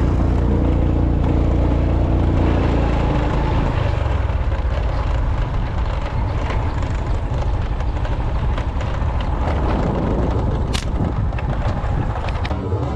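A motor vehicle engine running steadily under a heavy, noisy rumble, with a few sharp clicks near the end.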